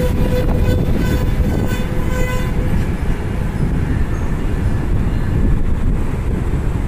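Train running close by with a loud, steady rumble. A steady tone rides above it and stops about two and a half seconds in.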